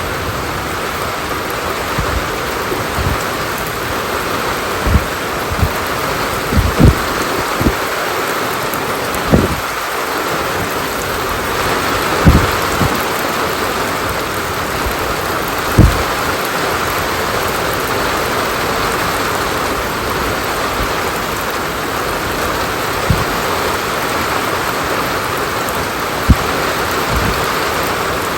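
Steady, heavy rainfall, an even hiss of rain on surfaces. Sharp, irregular knocks of larger drops cut through it every few seconds, the loudest about 7, 12 and 16 seconds in.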